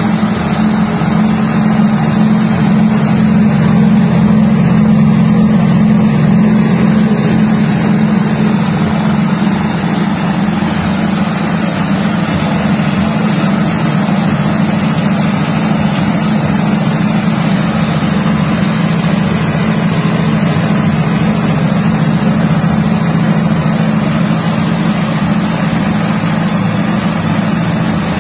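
Peanut-shelling machine running steadily with a loud, constant mechanical drone and a strong low hum.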